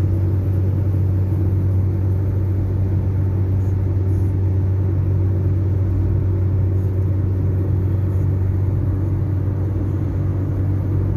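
Steady low drone of a vehicle on the move, its engine and road noise running evenly without change.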